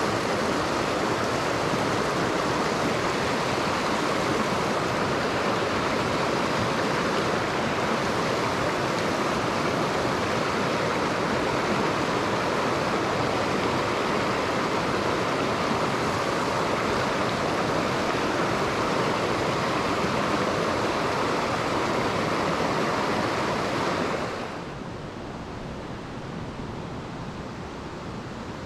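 Mountain stream water rushing steadily; about 24 seconds in it turns suddenly softer and duller.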